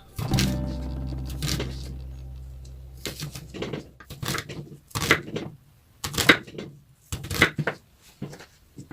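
Kitchen knife slicing through an onion onto a cutting board: crisp cutting strokes in clusters about once a second. A low tone fades away over the first three seconds.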